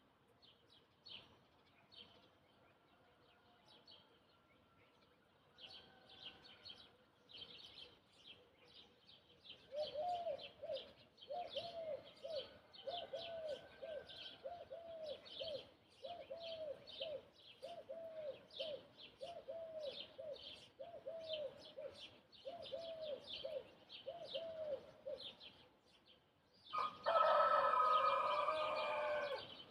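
Small birds chirping throughout while another bird repeats a low, even call note over and over through the middle. Near the end a rooster crows loudly, one long crow of about two and a half seconds.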